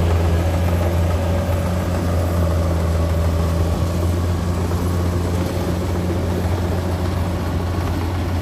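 Rice combine harvester engine running steadily, a loud, even low hum.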